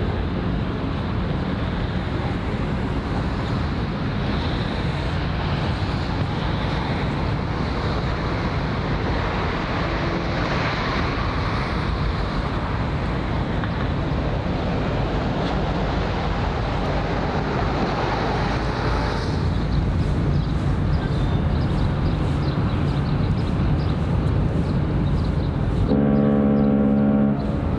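Steady outdoor background noise, mostly low in pitch, then near the end a ship's horn starts sounding a deep, steady blast of several tones together.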